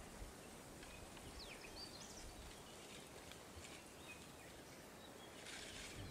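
Quiet bush ambience: a few short, faint bird chirps and whistles over a low hiss, with a brief rustle near the end.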